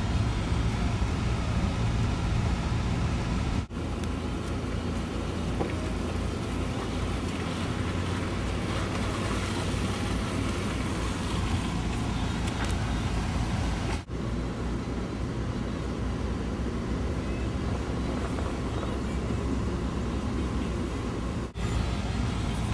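A four-wheel-drive vehicle driving, heard from inside the cab: steady engine and road rumble. The sound cuts out very briefly three times.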